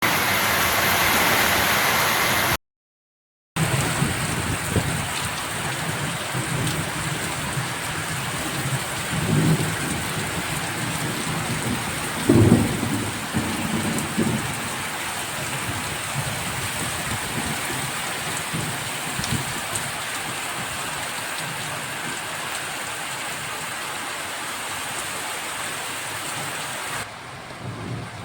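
Heavy rain pouring steadily, with a few short low rumbles around ten and twelve seconds in. The sound cuts out completely for about a second near three seconds in.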